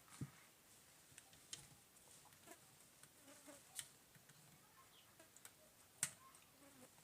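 Near silence with faint chicken clucking in the background and a few small clicks, the strongest about six seconds in.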